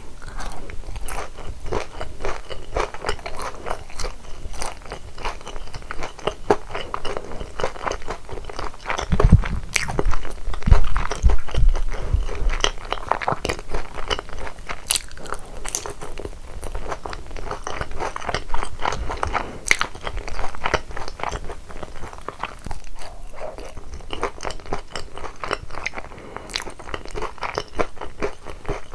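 Close-miked crunchy chewing and biting of boneless yangnyeom fried chicken, dense irregular crackles of the fried coating. It grows louder and heavier for a few seconds about a third of the way in.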